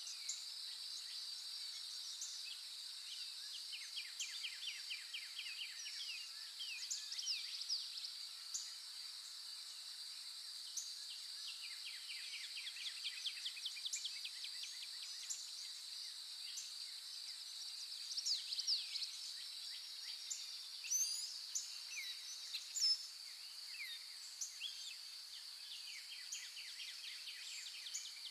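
A steady, high insect drone with birds singing over it: runs of quick, falling notes repeated several times, and scattered short chirps.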